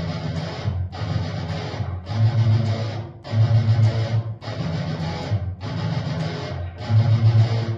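Guitar playing a low-string chorus riff: four picked strokes on the bass string, then one on two strings, repeated as the chord shape moves between fret positions. It comes in short phrases of about a second each with brief breaks between them.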